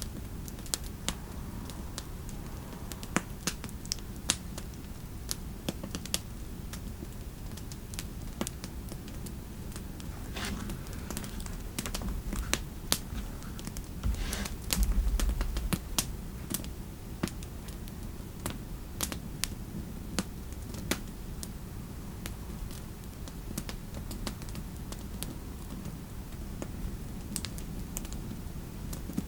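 Fireplace crackling: sharp, irregular pops and clicks over a steady low rumble, mixed with a few keyboard taps. A deeper thud comes about halfway through.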